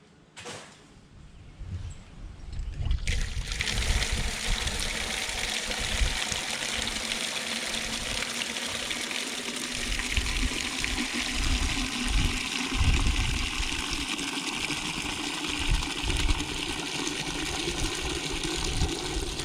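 Water running steadily from a tap and splashing into a container as it fills, starting about three seconds in after a few faint knocks.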